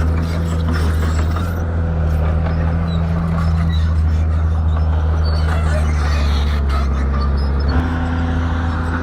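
Shantui bulldozer's diesel engine running steadily, its engine note shifting near the end.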